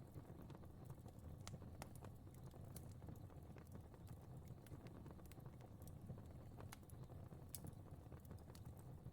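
Fire crackling faintly: scattered sharp pops and snaps at irregular intervals over a steady low rumble.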